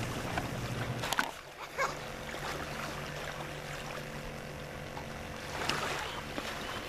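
Lake water splashing and lapping around swimmers, with a low steady hum underneath and a couple of sharp clicks about a second in.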